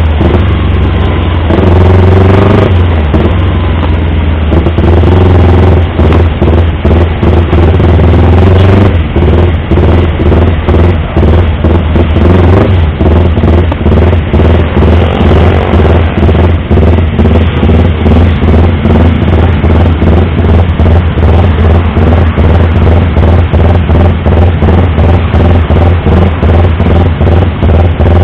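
Yamaha R25's 250 cc parallel-twin engine being revved, its pitch rising and falling over the first several seconds, then settling to an idle with a steady, even pulse.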